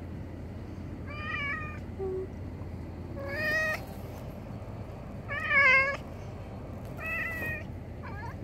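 A house cat meowing in insistent, begging calls: four drawn-out meows about two seconds apart, each wavering in pitch, the third the loudest.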